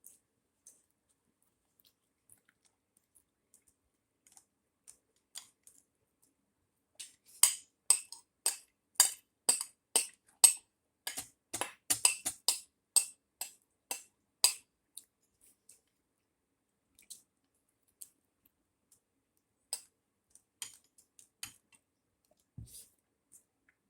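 Eating noises at a meal: a run of sharp clicks and taps, about two a second, from about 7 to 15 seconds in, with scattered single clicks before and after.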